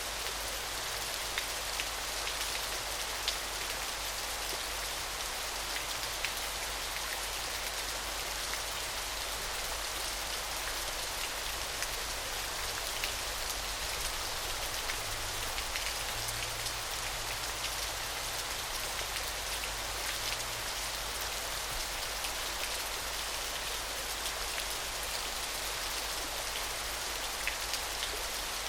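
Small waterfall splashing steadily, an even hiss of falling water full of fine drips and patters.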